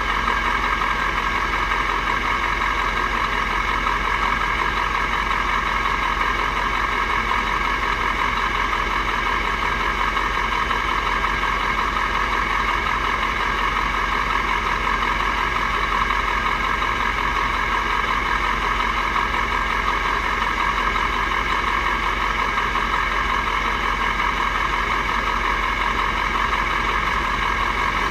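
Mack R-series truck's V8 diesel engine running at a steady, unchanging speed and pitch.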